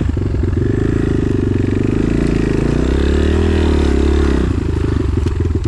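Enduro motorcycle engine running at low revs under load, revving up about three seconds in and dropping back again, then chugging unevenly near the end.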